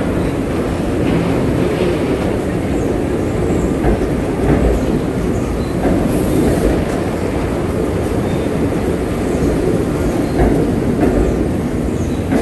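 Amtrak passenger train rolling along the track: a steady, loud rumble of wheels on rail with scattered clicks over the rail joints, and a short high hiss about halfway through.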